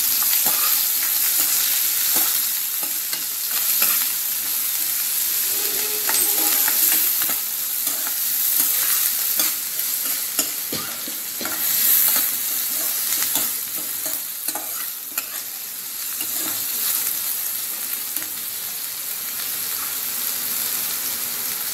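Chopped onion, peanuts, green chillies and curry leaves sizzling in hot oil in a kadai, while a steel spoon stirs and scrapes them, clicking against the pan. The stirring stops about two-thirds of the way through and the sizzling goes on.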